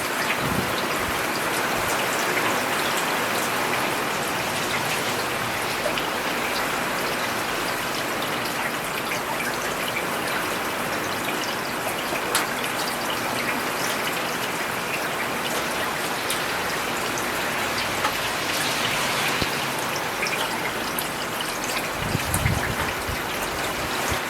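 Steady rain falling on a road, with scattered individual drops heard above the even hiss. A brief low rumble sounds near the end.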